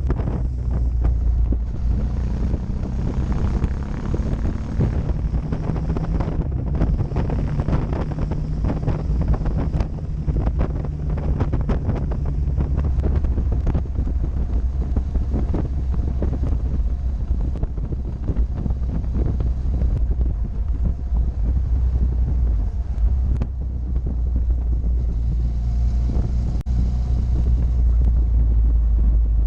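Motorcycle engine running steadily at road speed, heavily buffeted by wind on the camera's microphone. The engine's pitch shifts a little about halfway through.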